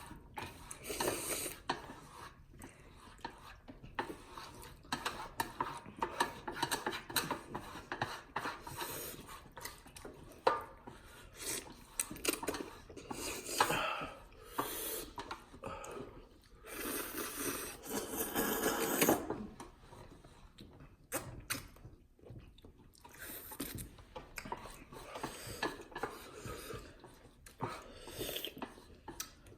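People eating cheesy ramen noodles: slurping and chewing in irregular bursts, with clinks and scrapes of utensils against the bowl. A longer, louder stretch comes a little past halfway.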